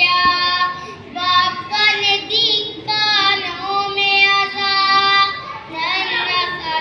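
A child singing, with long held notes and slides between them.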